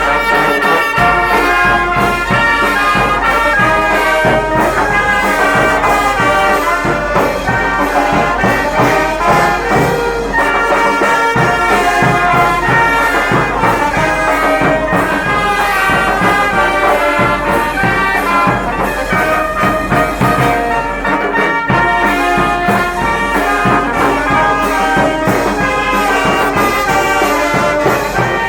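Brass band playing a Guatemalan procession son, the melody carried by brass in continuous, loud, unbroken playing.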